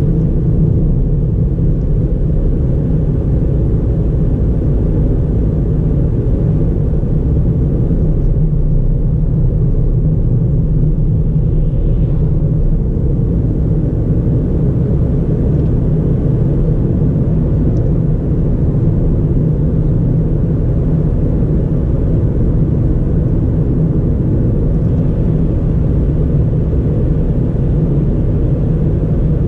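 2009 Ford Fiesta 1.4 four-cylinder with automatic gearbox driving at a steady speed: an even, low rumble of engine and tyre noise with no revving.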